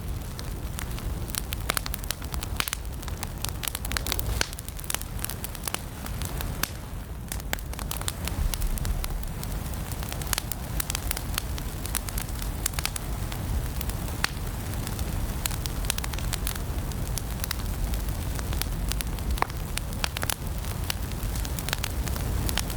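Wood fire burning in a fireplace, crackling and popping irregularly over a steady low rumble of flames.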